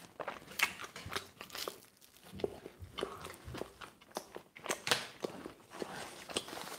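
A person chewing a mouthful of pizza close to the microphone, with irregular soft crunches and mouth clicks.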